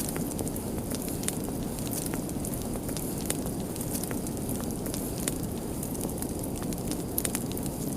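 A fire crackling: frequent sharp, irregular pops over a steady low rush of burning flames.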